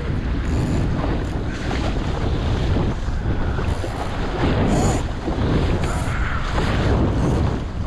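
Wind buffeting the microphone with a steady low rumble, over water rushing and splashing against the hull of a small sailing dinghy under way, with short splashes about every second.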